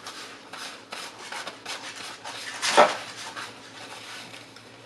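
Food and its containers being handled close to the microphone: a run of short rubs and scrapes, with one louder scrape nearly three seconds in.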